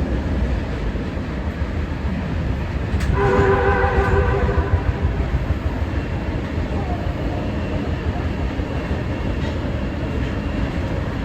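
Kita-Osaka Kyuko 9000 series electric train running with a steady rumble. About three seconds in, a train horn sounds once, a steady blast of about two seconds.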